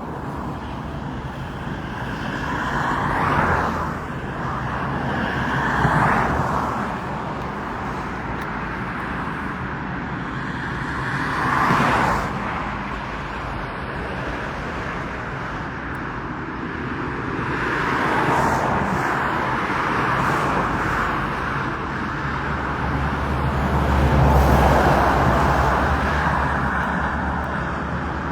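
Road traffic: cars passing one after another over a steady hum of tyres, each swelling and fading, about six passes, the loudest late on with a deep rumble.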